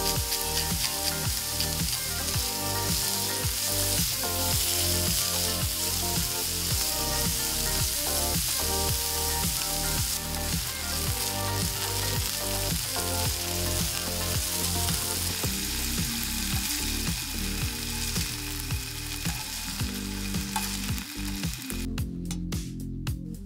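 Pieces of chicken breast sizzling in hot oil in a non-stick frying pan while a slotted spatula stirs and turns them. The sizzle cuts off near the end.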